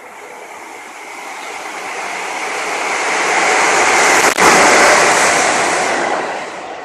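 An electric locomotive passes through the station at speed on the near track. A rushing noise builds for about four seconds, peaks as it goes by with one sharp crack, and then fades quickly.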